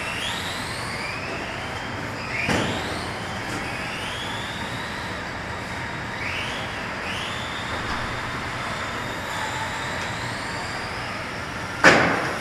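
Electric RC cars running on a track, their motors whining up in pitch again and again as they accelerate out of the corners. A sharp knock comes about two and a half seconds in, and a louder one near the end.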